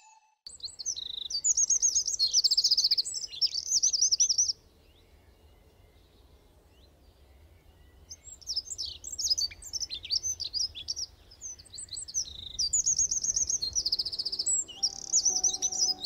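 Songbirds chirping and calling in quick trills, in two spells with a quiet gap of a few seconds between them, over a faint low rumble.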